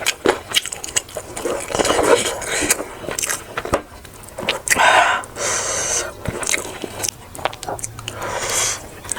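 Eating sounds: irregular bites, chewing and a spoon scraping a plate, with scattered clicks and a louder noisy burst about halfway through.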